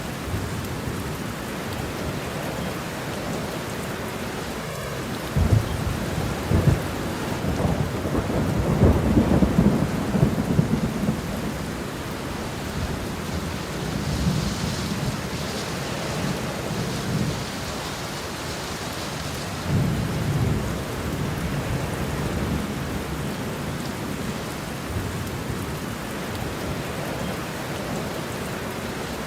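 Steady rain falling, with rolling thunder rumbling low through it. The thunder swells loudest about five to eleven seconds in and rumbles again briefly around twenty seconds in.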